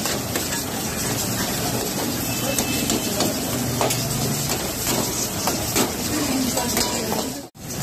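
Chicken karahi bubbling and sizzling hard in a large steel karahi wok over a gas burner, a steady hiss, with the rush of the burners underneath. The sound cuts out briefly near the end.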